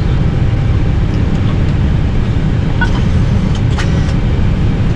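Steady low rumble and air noise inside a parked Airbus A320 cockpit, with a few faint clicks about three to four seconds in.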